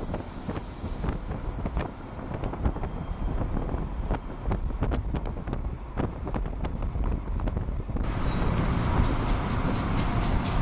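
Diesel freight locomotives running, with a low rumble, scattered clicks and wind on the microphone. About eight seconds in it changes abruptly to a louder, fuller rumble of a CSX diesel locomotive passing.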